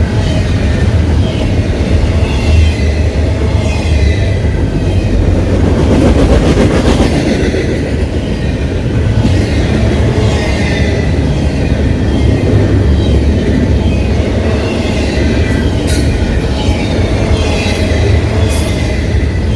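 A CPKC freight train's cars rolling past close by, with a steady rumble of steel wheels on rail. Wavering high squeals from the wheels come and go, and there are a few sharp clicks near the end.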